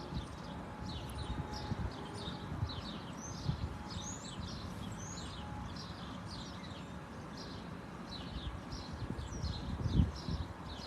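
Birds chirping, many short downward-sliding notes repeating quickly, over outdoor background noise with a few low thumps of wind on the microphone.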